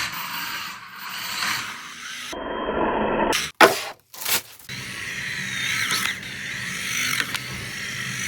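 Radio-controlled cars running in a string of short clips cut together, with a faint motor whine that glides up and down about two-thirds of the way through and a few sharp knocks near the middle.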